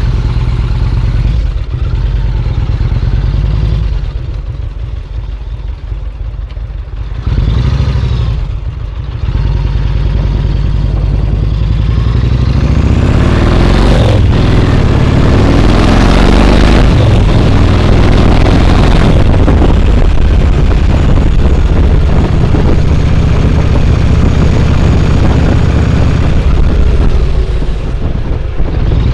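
Yamaha Road Star XV1600's V-twin engine running, going quieter twice in the first ten seconds, then louder from about twelve seconds in with a rushing hiss over it.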